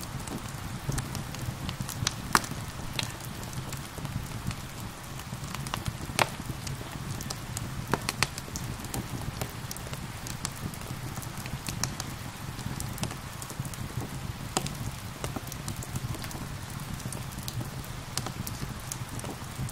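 Wood fire crackling with irregular sharp pops and snaps over a steady low rumble, mixed with the even patter of gentle rain.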